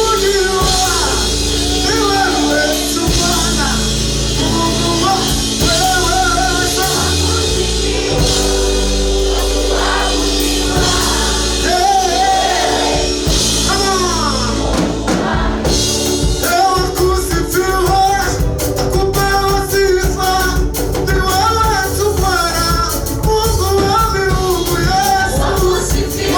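A group singing gospel praise music with instrumental backing; from about halfway through, a quick percussive beat comes in.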